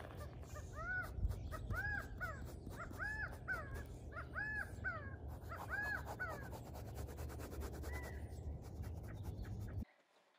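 A bird calling repeatedly: five quick bunches of two or three short arched calls, about a second apart, through the first six seconds. A steady low rumble runs underneath.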